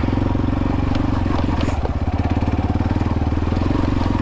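X-Pro Templar X 250 dirt bike engine running at a steady, low speed, with no revving.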